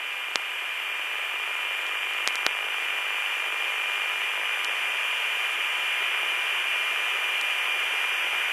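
Air-band radio static: a steady, narrow-band hiss with a faint steady whistle through it and a few sharp clicks, slowly growing louder.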